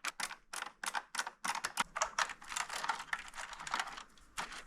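Screwdriver driving screws into the plastic housing of a split air conditioner's indoor unit: a quick, irregular run of sharp clicks.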